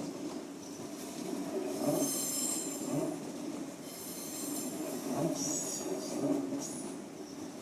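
A train rolling slowly over the tracks, its wheels squealing in several short high-pitched spells, with dull knocks over the rail joints about once a second.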